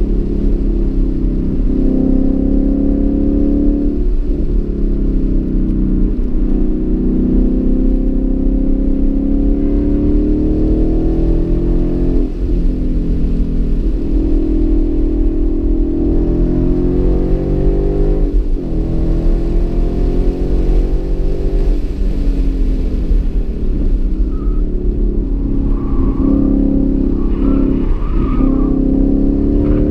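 2015 Mustang GT's 5.0-litre V8 at full throttle on a road course, its pitch rising in long sweeps and dropping sharply several times at gear changes and lift-offs for the corners.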